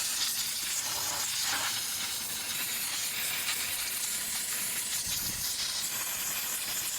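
Steady, high hiss of a steam cleaner's jet spraying steam over an engine.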